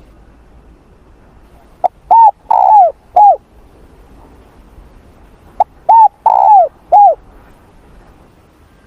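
Spotted dove cooing: two identical phrases about four seconds apart, each a short lead-in note followed by three coos, the middle coo longer and falling in pitch.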